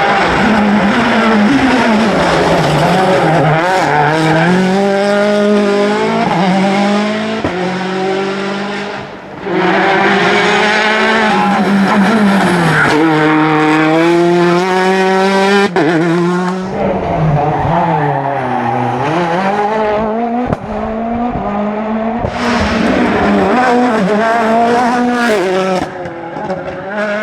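Rally cars at full throttle on a stage, engines revving hard and dropping back with each gear change, one car after another, with edit cuts about nine and seventeen seconds in.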